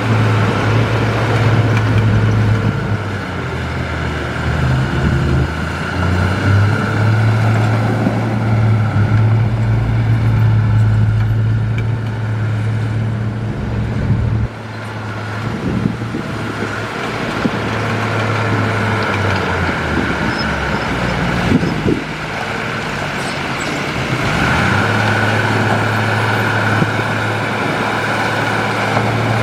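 Heavy diesel engine of earthmoving machinery running under changing load. Its steady drone drops away about halfway through, with a few knocks, and picks up again near the end.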